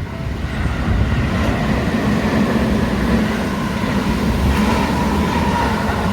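A Seibu Haijima Line electric train running past over the level crossing, a steady rumble that swells about a second in, with a brief higher whine near the end. The crossing bell's pulsing tones fade into the train noise at the start.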